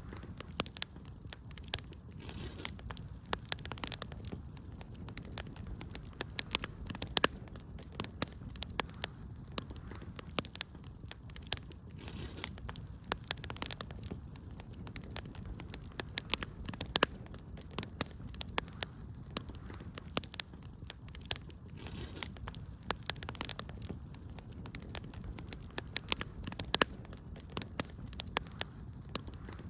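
Wood fire in a fireplace crackling, with frequent sharp irregular pops over a low steady rumble of flames.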